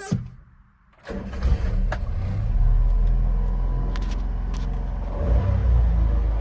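A 1998 Honda Acty mini truck's 660 cc three-cylinder petrol engine starts about a second in, then runs steadily at idle.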